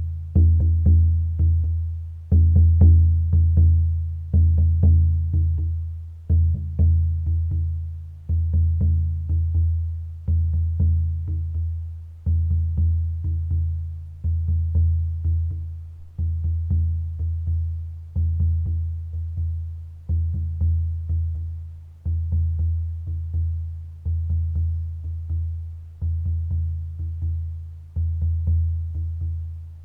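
A deep, low-pitched drum struck in a slow, steady rhythm: a strong beat about every two seconds that rings and dies away, with lighter taps in between.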